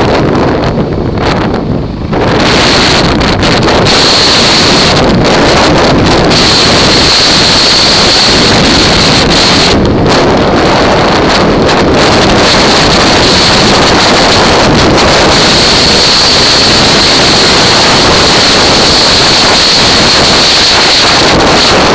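Loud, continuous wind buffeting the microphone on a moving Kawasaki KFX quad. The sound grows fuller from about two seconds in, and a steady high whine runs through it.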